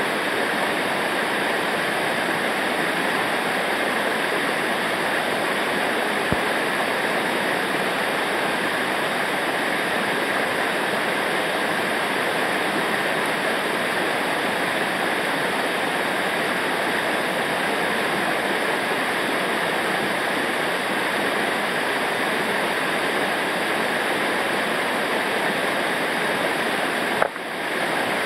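Rushing water of river rapids: a steady, even rush, with a brief drop in level about a second before the end.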